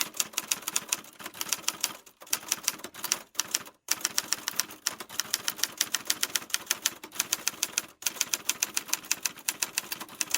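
Typewriter keys clacking in a fast, even run of about five strikes a second, with a few brief pauses.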